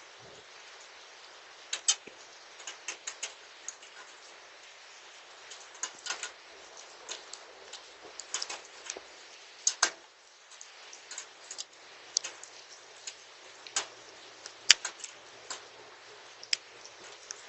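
Rain with hail falling: a steady hiss of rain with irregular sharp ticks of hailstones striking, a few of them much louder than the rest.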